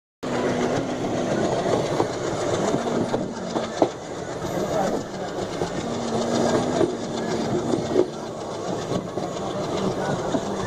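Moving passenger train: a steady rumble of the running train with the clack of wheels over the rails, and a few sharp knocks about two, four and eight seconds in.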